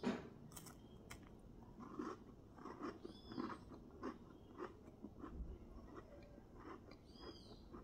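A person biting a cornstarch biscuit dunked in chocolate milk, then chewing it faintly. A short, sharp bite sound comes right at the start, followed by soft scattered chewing sounds.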